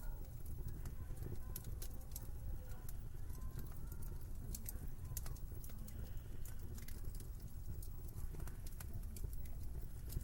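Wood fire crackling in a fireplace, with frequent sharp pops and ticks, over a steady low rumble and a faint wavering whistle of wind.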